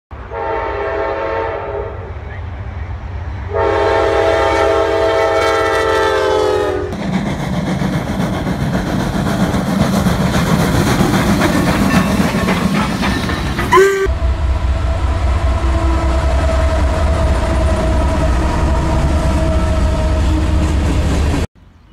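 Diesel freight locomotive horns sounding in two long chord blasts, then a freight train rolling past with rumble and wheel clatter, then a steady low locomotive engine drone. Each sound cuts in or out abruptly.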